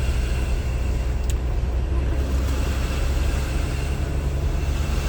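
Steady low engine and road rumble of a Sprinter-based campervan, heard inside its cabin.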